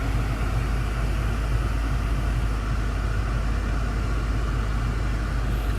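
BMW M5 F10's twin-turbo V8 idling, heard from inside the cabin as a steady low rumble.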